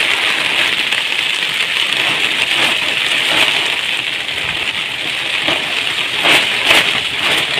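Heavy storm rain coming down in a steady hiss, with a few sharper spatters about six to seven seconds in.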